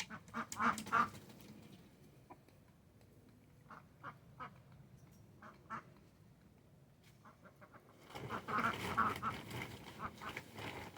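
Ducks quacking: a few calls in the first second, scattered single quacks through the middle, and a busier, louder bout of quacking from about eight seconds in.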